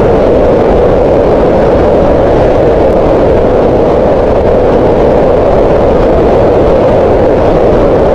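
Green noise: a steady, unbroken hiss whose energy sits mostly in the middle of the range, so it sounds softer and rounder than white noise.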